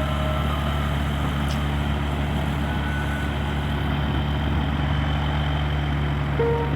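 Steady drone of a light aircraft's Rotax 912 flat-four engine and propeller in cruise flight.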